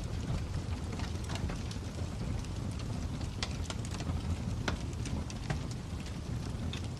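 Fire crackling: irregular sharp pops and snaps, a few a second, over a steady low rumble.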